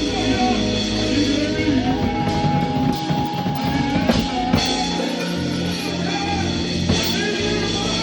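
Live rock band playing, with drum kit and guitar, and a long held note through the middle.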